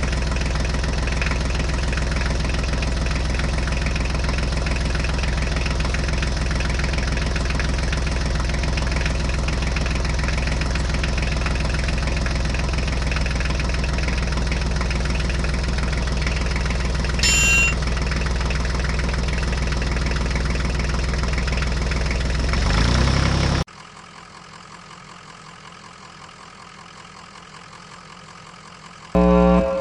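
Tractor engine running steadily at idle, with a single bell-like ding about seventeen seconds in. The engine cuts off suddenly about twenty-three seconds in, leaving a much quieter steady hum, and a short loud tone sounds right at the end.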